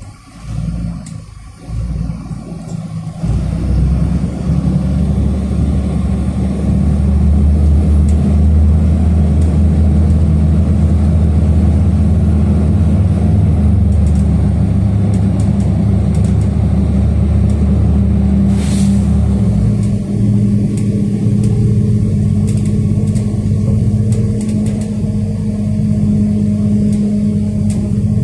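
City bus engine and road noise heard from inside the passenger cabin: the bus pulls away about three seconds in and runs steadily with a strong low drone, the engine note dropping and changing about twenty seconds in, with a short hiss just before.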